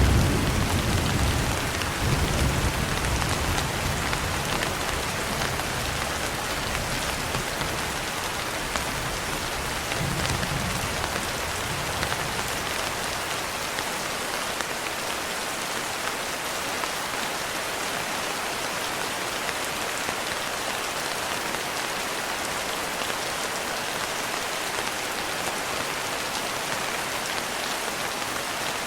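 Steady rain falling on a window, with low thunder rumbling in the first few seconds and once more, more faintly, about ten seconds in before dying away.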